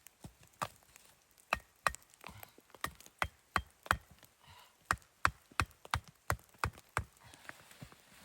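Wood being chopped: a quick, uneven series of sharp strikes, about two to three a second, some with a short ring.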